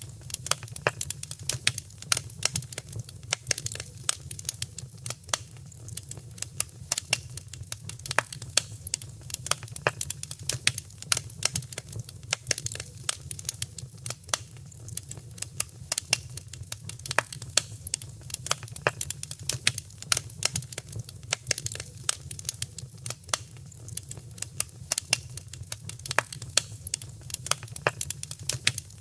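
Wood fire in a fireplace crackling: a dense, irregular run of sharp snaps and pops over a steady low rumble of the flames.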